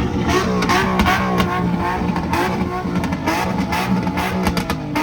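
Car engine held at high revs with a rapid crackle of exhaust pops, mixed with guitar music.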